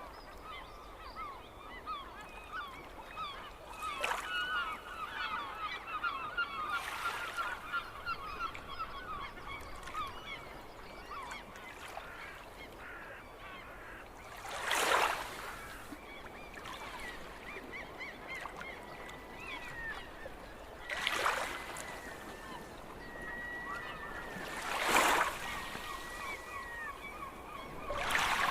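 A flock of seagulls calling, many short overlapping cries with a few longer level mewing notes later on. Brief loud rushes of noise cut through several times, the loudest about halfway through and near the end.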